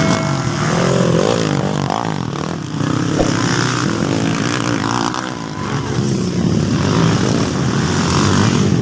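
Motocross dirt bike engines running and revving up and down as they race, their pitch rising and falling several times in the first few seconds.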